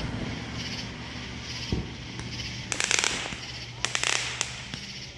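Fireworks crackling in quick rapid bursts: a single pop, then a burst about three seconds in and another around four seconds, over a low steady hum.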